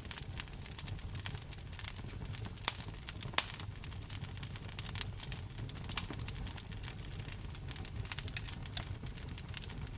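Wood fire in a fireplace crackling: many irregular sharp pops and snaps, a few louder ones, over a steady low rumble of the burning fire.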